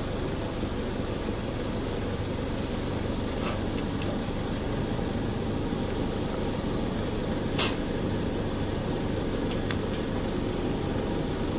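Steady low hum of workshop machinery and ventilation, with a few sharp clicks from the machine being worked on; the loudest click comes about seven and a half seconds in.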